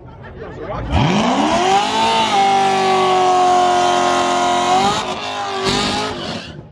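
A drag-racing car engine revs up sharply and holds high revs for about three seconds with a heavy hiss, then drops off suddenly; a short second burst of revs follows near the end.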